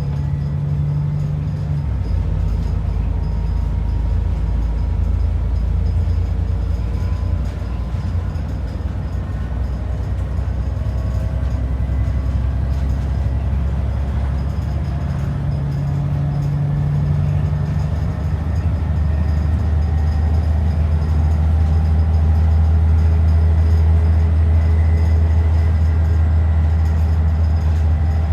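ADL Enviro 400 double-decker bus under way: a steady, loud low engine drone with road noise. The engine note shifts a couple of times, about two seconds in and again past the middle, and grows slightly louder near the end.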